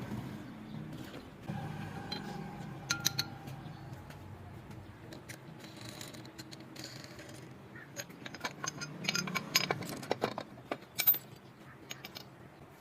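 Metal tools and engine parts clinking and tapping against each other in scattered sharp clicks, with a busier run of clinks in the second half.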